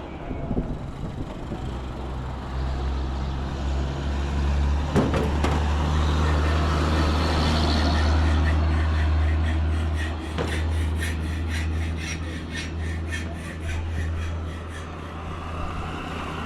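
Engine of a motor vehicle running steadily, heard while riding in it, its low hum swelling in the middle and easing off later. A quick, regular ticking joins in between about ten and fifteen seconds in.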